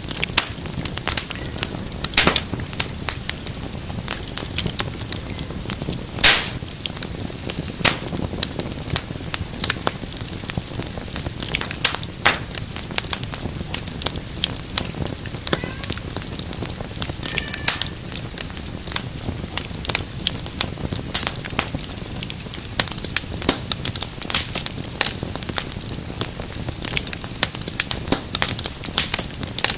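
Wood fire crackling steadily over a low rumble of flame, with frequent small snaps and a few louder pops.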